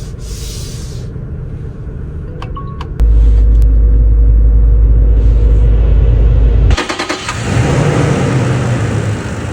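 Toyota Land Cruiser Prado running and driving, a deep rumble heard across several edited shots. It changes abruptly about three seconds in, where the low rumble becomes much louder, and again near seven seconds.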